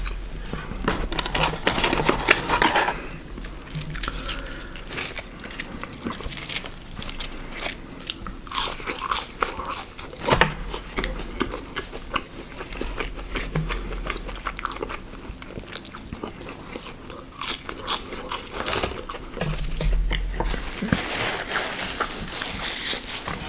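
Close-miked eating: bites and crunchy chewing of fast food, with dense irregular crunches throughout, heaviest at the start and again near the end.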